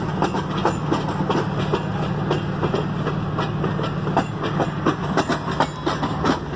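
A long freight train's cars rolling past, a steady low rumble with the wheels clicking irregularly over the rail joints.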